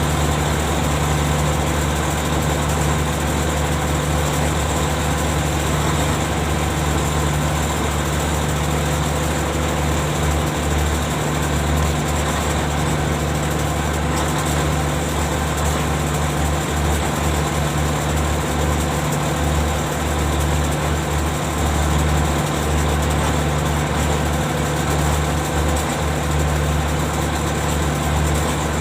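Ship's machinery running steadily with a deep, constant hum, unchanging throughout.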